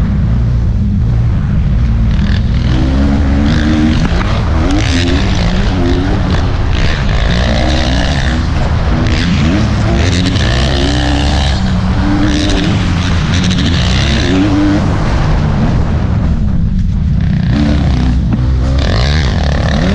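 Motocross bike engine racing, its pitch rising and falling again and again as the throttle opens and closes through gear changes, over a heavy low rumble. The revs drop off briefly about three-quarters of the way through, then pick up again.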